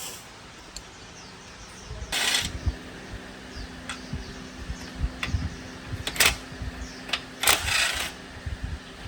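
Workshop handling sounds: scattered clicks and knocks, with three short rasping bursts, over a steady hum that begins about two seconds in.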